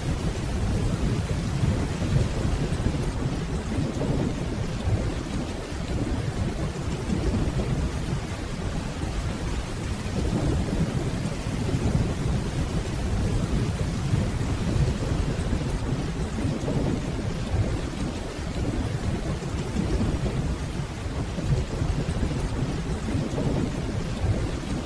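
Steady rainfall with a deep, rolling rumble of distant thunder underneath that swells and eases, never sharp.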